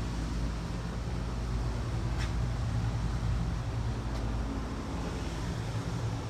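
Steady low rumble of distant road traffic, with two faint ticks about two seconds apart.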